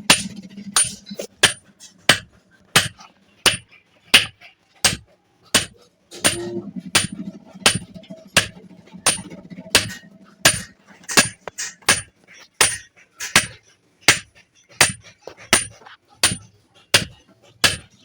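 Hand hammer striking metal in a steady rhythm, about three blows every two seconds, each blow with a short bright metallic ring, as a hammer head is forged.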